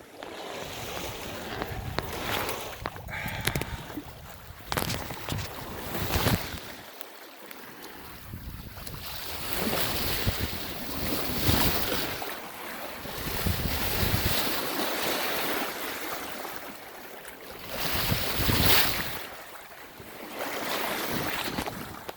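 Sea water rushing and splashing along a sailboat's hull under sail in a following sea, swelling and easing every few seconds as waves pass, with wind buffeting the microphone.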